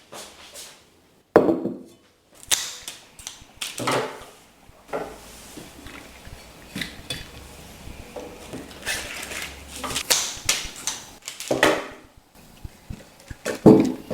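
Dishes and utensils clinking and knocking as they are handled, in a string of separate short clatters.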